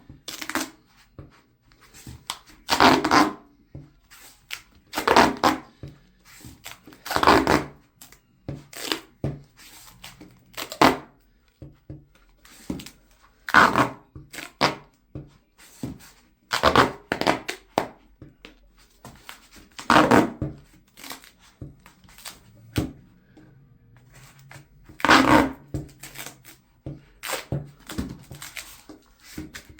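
Duct tape being stripped off the roll and torn, in about nine loud rips spaced a few seconds apart, with small handling clicks and rustles between them.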